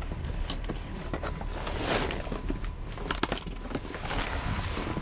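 Rummaging through trash in a dumpster: rustling and light clattering, with a quick run of sharp clicks about three seconds in. A low rumble of wind on the microphone runs underneath.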